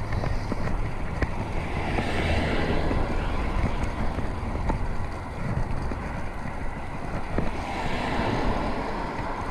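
Wind rushing over an action camera's microphone during a bike ride, with a steady low rumble of tyres on the road underneath.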